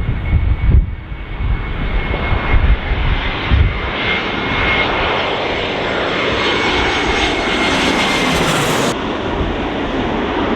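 Jet airliner passing close, its engines giving a loud rushing noise with a steady high whine and a pitch that falls as it goes by; gusts buffet the microphone in the first few seconds, and a high hiss cuts off suddenly about nine seconds in.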